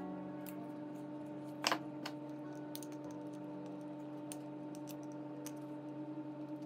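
Scattered light clicks and taps, as of small tools and parts being handled on a phone, with one sharper click about two seconds in, over a steady low hum.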